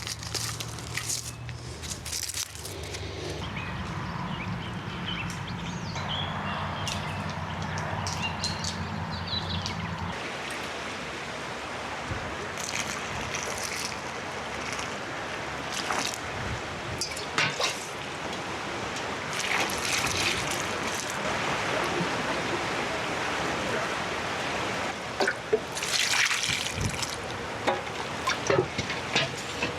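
Water running and trickling, with scattered small knocks and clicks of handling. A low hum sits under it for about the first ten seconds, then stops.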